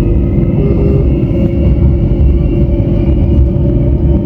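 Gautrain electric commuter train running between stations, heard from inside the carriage: a steady low rumble with a steady hum over it.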